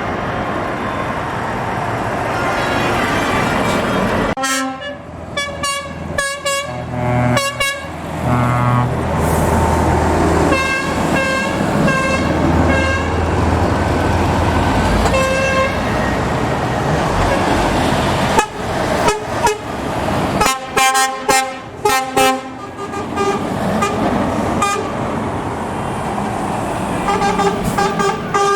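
Trucks driving past with engines rumbling, sounding their horns in repeated bursts of short toots, with a longer horn blast starting near the end.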